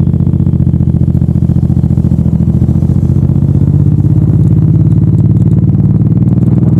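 Suzuki Boulevard M109R's big V-twin engine running under way, its exhaust pulsing evenly, the pitch slowly rising over the last few seconds as it accelerates.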